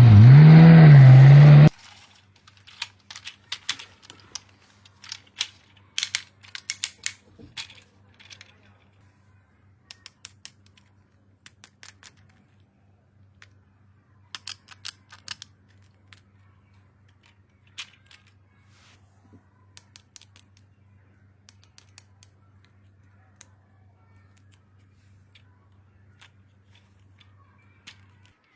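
Scattered small clicks, ticks and taps of plastic toy parts and packaging being handled and unpacked, thickest in the first few seconds and again around the middle, over a faint steady hum. It opens with a loud electronic sound of wavering pitch that cuts off sharply after about a second and a half.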